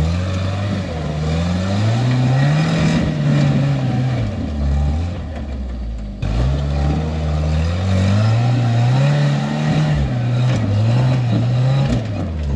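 Off-road rig's engine revving in several rising and falling surges as it works to climb a rock obstacle on poorly gripping tires, with a brief drop-off about six seconds in.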